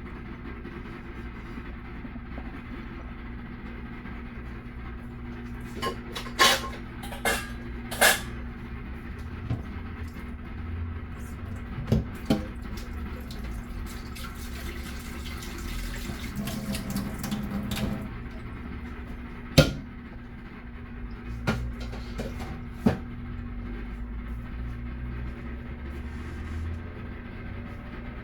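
Kitchen work: a series of sharp clinks and knocks of dishes and utensils over a steady low hum, with a busier, noisier stretch in the middle.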